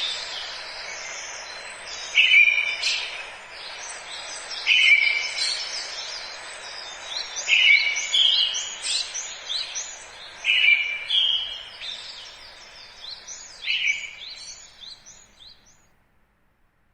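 Forest ambience: a songbird repeats the same song about every two and a half to three seconds, each phrase opening with a few level notes and breaking into a quick run of higher notes, over a steady background hiss. The sound fades out to silence near the end.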